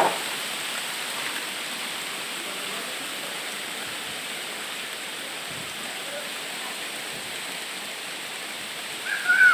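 Steady hiss of sand rain: fine sand falling and pattering down like rainfall. A brief voice cuts in near the end.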